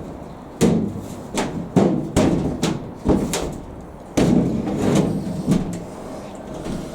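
A quick, irregular series of knocks and thumps from the Indesit IS60V tumble dryer's cabinet as it is shuffled and bumped into position.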